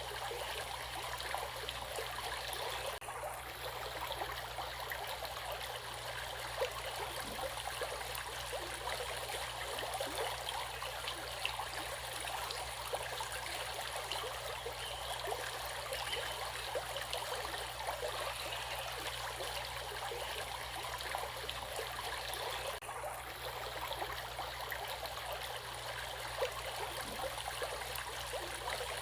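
Flowing stream water running steadily, a continuous rush with small trickles and splashes.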